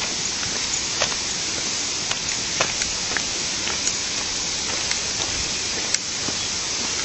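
Small river flowing: a steady rushing noise with scattered faint clicks.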